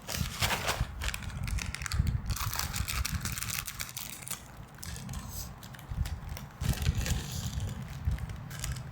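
Plastic snack wrappers crinkling and crackling as they are handled, in a few irregular bouts over a low rumble of handling.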